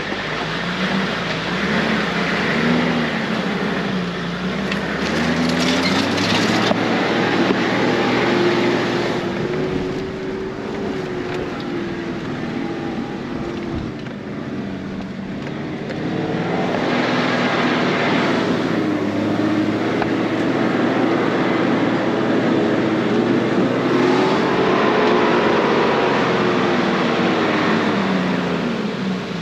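Off-road 4x4's engine working under load, its revs rising and falling again and again. Twice, about five and seventeen seconds in, a louder hiss-like noise joins it for a couple of seconds.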